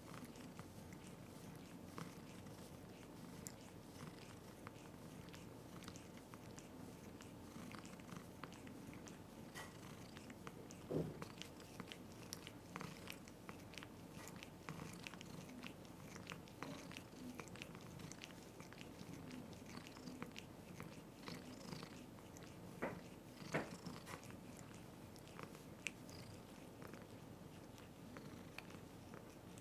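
A cat grooming, with faint, irregular licking and nibbling clicks and a few louder knocks.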